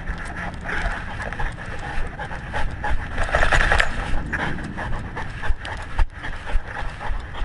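A dog panting right at a collar-mounted camera, a rough continuous breathing that grows louder about three seconds in, with irregular low bumps and rubbing from the camera jostling on the collar.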